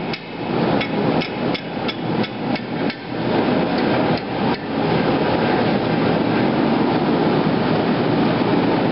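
Hand hammer striking the hot steel of a machete's socket handle against the anvil, about three blows a second, knocking the upturned end of the socket down. The blows stop about three seconds in, with two more a second later, and a steady rushing noise carries on after them.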